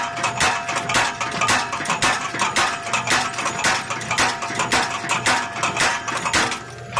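Belt-driven mechanical power hammer striking hot steel in a steady run of ringing metal blows, about two to three a second, with a steady tone underneath; the blows stop shortly before the end.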